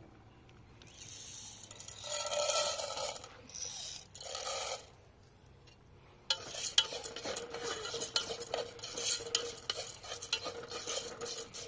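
Utensil scraping and clinking against a pot, with a few separate swishing strokes at first, then a dense run of quick, irregular clicks from about six seconds in.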